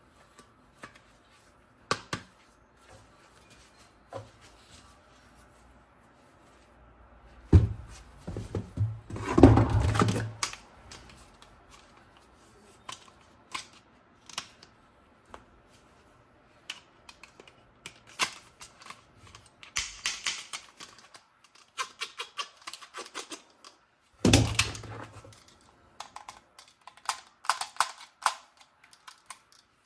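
Irregular clicks, taps and rattles of small hard objects being handled, with a few heavier knocks: one about a third of the way in and another past the three-quarter mark.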